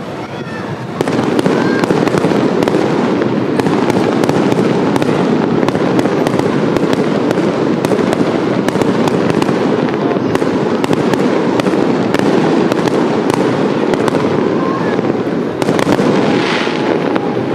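Fireworks barrage: a dense, continuous run of booms and crackling bursts that starts about a second in, with a fresh surge of bursts near the end.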